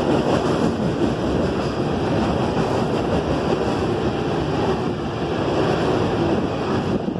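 Loaded freight cars of a CSX train rolling past on the rails below, a steady rumble, with wind buffeting the microphone.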